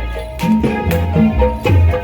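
Javanese traditional music for a Reog performance: deep drum strokes on a steady beat under repeated short, ringing pitched percussion notes.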